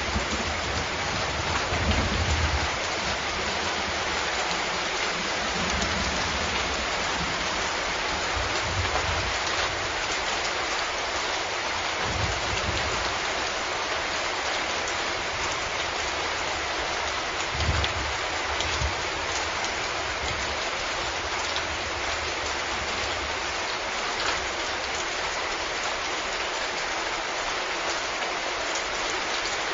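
Steady, dense rainfall hissing evenly, with a few brief low rumbles in the first two-thirds, the strongest a little past halfway.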